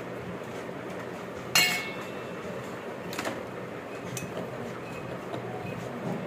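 Metal parts of a turbocharger being handled and knocked together: a sharp ringing metal clink about one and a half seconds in, a fainter one about three seconds in, and a small tick a second later.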